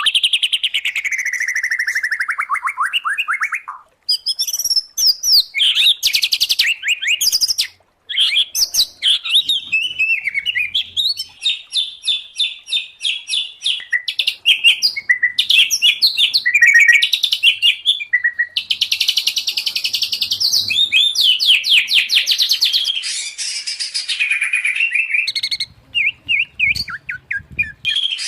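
A mix of white-rumped shama, oriental magpie-robin and greater green leafbird song: a loud, varied run of whistles, trills and rapid chattering phrases, broken by brief silences about four and eight seconds in.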